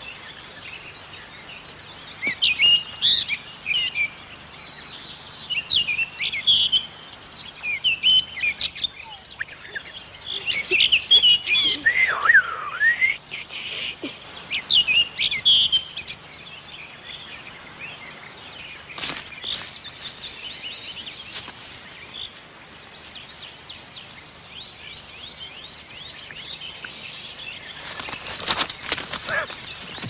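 Woodland birds chirping and trilling in many short, quick phrases, busiest in the first half, with one falling whistle-like call about twelve seconds in. There are a few sharp snaps in the middle and a short burst of crackling near the end.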